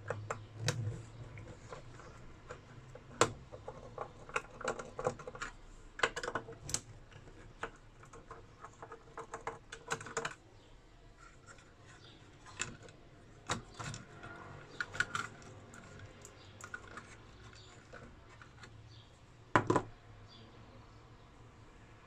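Irregular clicks, taps and short scrapes of small hard parts being handled as an inverter is taken apart by hand, with one louder knock near the end.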